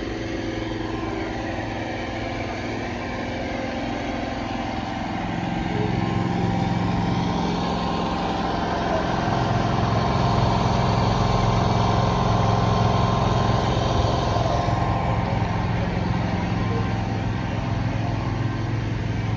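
Car engine running at a steady idle, growing louder about five seconds in and staying loud for about ten seconds before easing slightly.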